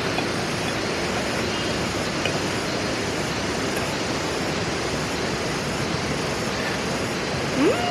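Steady, even rushing background noise with no distinct events. A voice rises and falls in pitch near the end.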